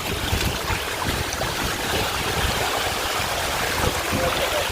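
Steady rushing of river water tumbling over rocks at a small waterfall cascade.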